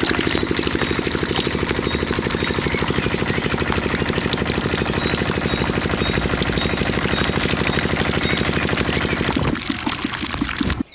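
Mini diesel engine running steadily as it drives a small water pump, with water rushing through it. About nine and a half seconds in the engine note dies away while the water sound goes on, then everything cuts off abruptly.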